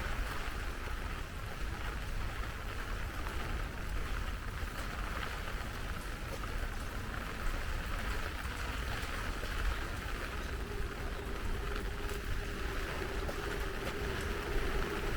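Heavy rain falling steadily. Near the end a vehicle's steady hum comes in and grows louder as it approaches.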